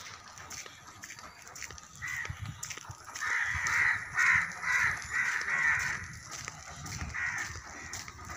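A bird calling over and over: a run of short calls, about two a second, loudest in the middle.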